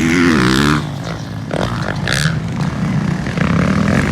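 Motocross dirt bike engines revving. The loud rev rises and falls, then drops away about a second in, leaving a quieter engine drone.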